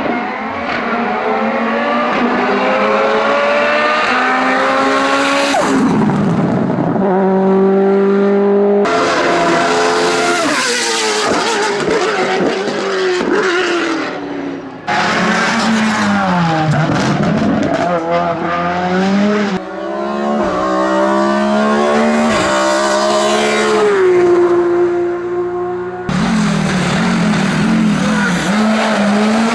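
Hillclimb racing car engines revving hard, the pitch climbing and falling as they accelerate and change gear, in several short clips joined by abrupt cuts. One dips low and climbs again in the middle, as if braking for a corner and accelerating out.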